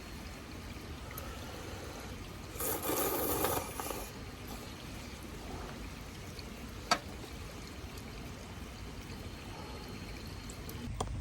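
Liquid poured briefly for about a second, a little under three seconds in, and a single sharp click about seven seconds in, over a low steady background.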